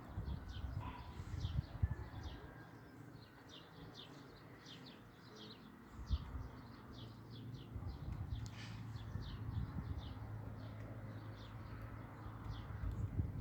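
A flock of small wild birds chirping continuously, with many short chirps overlapping, around a rooftop feeding spot. Low rumbling and knocks sound underneath.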